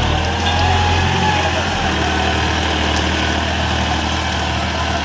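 New Holland farm tractor's diesel engine running at a steady speed, a continuous low drone.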